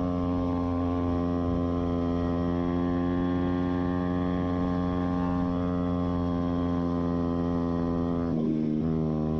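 YCF pit bike's single-cylinder four-stroke engine running at a steady speed under way, with its spark arrestor removed. Near the end, the pitch drops and then steadies at a lower engine speed.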